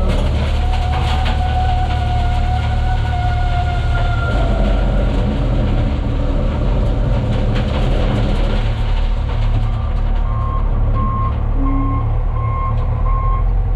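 Diesel engine of a loader running steadily. Between about one and four seconds in, a brake squeal sounds as a high tone sliding slowly down in pitch. From about ten seconds in, the backup alarm beeps evenly about once a second as the machine reverses.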